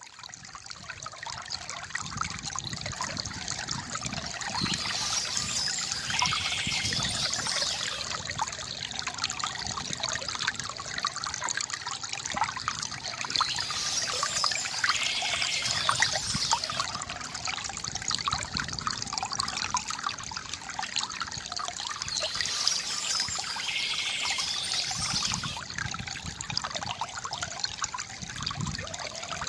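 Water trickling and splashing steadily from a bamboo fountain, with birds chirping in the background; a burst of bird song comes back about every nine seconds.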